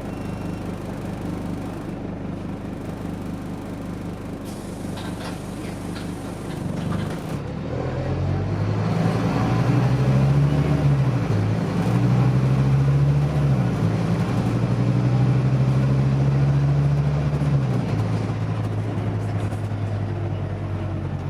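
Scania OmniDekka double-decker bus's diesel engine running steadily, then pulling away from about seven seconds in, its note rising and dropping back as the automatic gearbox changes up two or three times.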